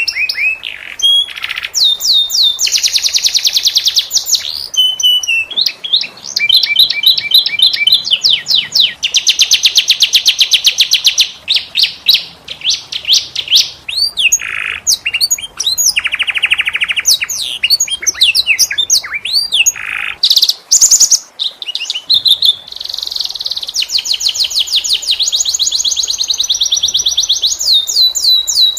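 Canary singing a long, continuous song of rapid trills and rolls, with fast runs of repeated chirps and sweeping notes that shift in pitch from phrase to phrase.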